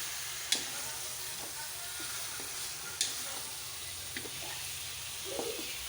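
Chicken frying in oil in a large wok, sizzling with a steady hiss, while it is stirred; a couple of sharp clicks of the spatula against the pan come about half a second and three seconds in.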